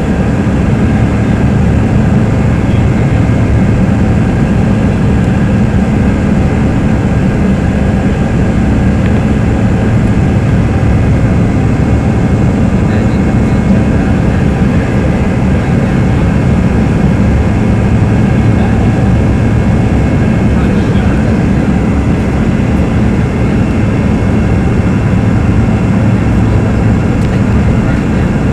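Steady cabin noise inside a Bombardier CRJ-200 with its rear-mounted GE CF34 turbofans running: a loud, even low rumble with faint steady whining tones above it.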